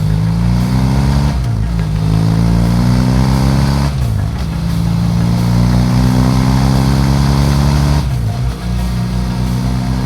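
BMW F800GS Adventure's parallel-twin engine accelerating under load, its pitch climbing steadily and dropping sharply at three upshifts.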